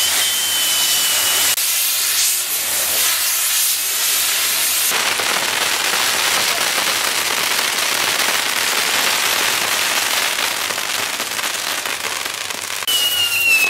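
Castillo firework tower burning: a loud, steady hiss of spinning fireworks throwing sparks. A whistling tone sounds at the start, and a falling whistle comes near the end.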